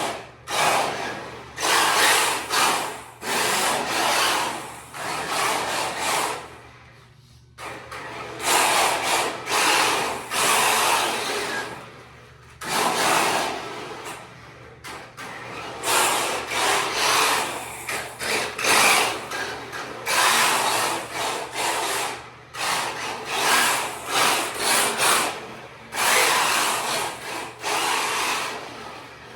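Kyosho Fazer MK2 RC drift car with a Traxxas brushless motor being driven in repeated throttle bursts of a second or two each, the motor and drivetrain whirring on and off.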